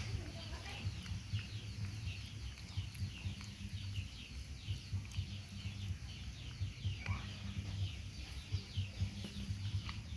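Birds chirping in quick succession: short, high, falling chirps, several a second, over a low rumble.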